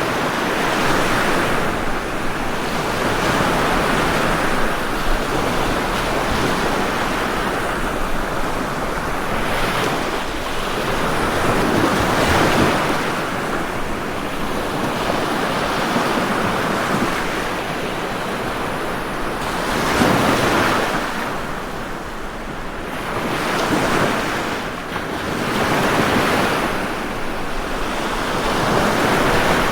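Ocean waves breaking and washing on a shore in a continuous rush, swelling as each wave breaks every few seconds, with the louder breaks about 12, 20 and 25 seconds in.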